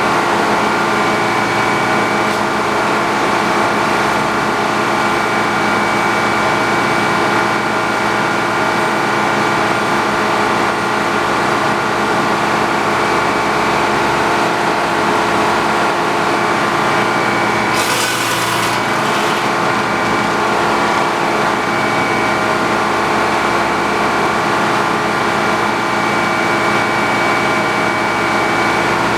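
Sawmill engine running steadily, with a brief burst of hissing noise about two-thirds of the way through.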